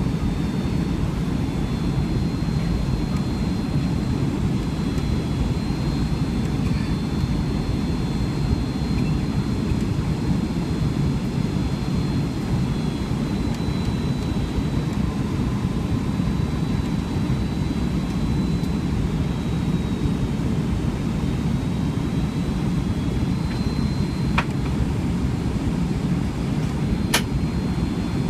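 Boeing 757 cabin noise: a steady low roar of jet engines and airflow with a faint high whine. Two faint clicks near the end.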